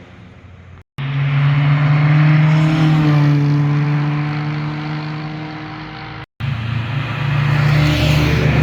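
Car engines and exhausts in a series of drive-by clips joined with abrupt cuts. About a second in, one car is loud at a steady pitch and then fades as it pulls away. Past the middle, a second car comes in, grows louder and passes close near the end.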